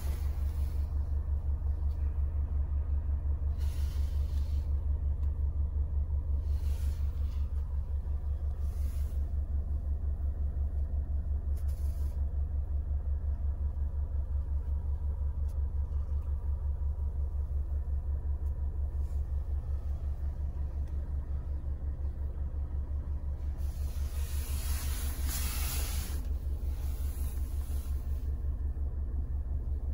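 Range Rover Velar's 2.0-litre four-cylinder diesel idling, a steady low rumble with a fine even pulse, heard from inside the cabin. A few short hissy rustles come over it, the longest near the end.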